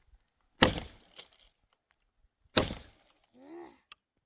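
Firewood being broken up: two sharp cracking strikes on wood, about two seconds apart.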